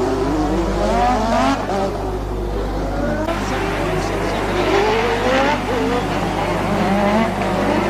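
1988 Formula One race cars' engines revving hard, with several cars heard at once; the pitch climbs through each gear and drops at every shift, over a steady low hum.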